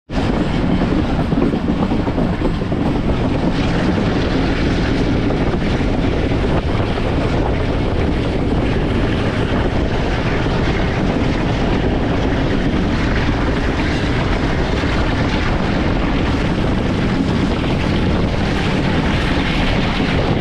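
Passenger train running at speed: a steady, loud rumble and rush of noise from the moving train.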